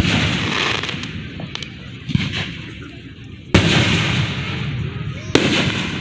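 Aerial fireworks bursting close by: a smaller bang about two seconds in, then loud sharp bangs at about three and a half and five and a half seconds, each followed by a long, fading, echoing tail.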